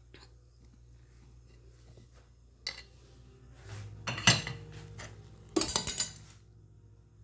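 Cutlery and dishes clinking: one clink, then a louder clatter about four seconds in, and a quick run of clinks about a second and a half later.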